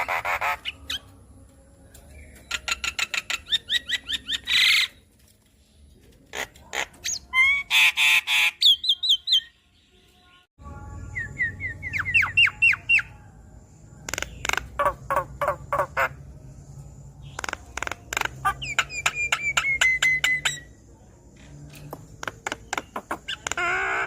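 Javan myna (jalak kebo) singing in a long chattering run: rapid trains of harsh clicking notes, squawks, and whistled notes that slide up and down in pitch.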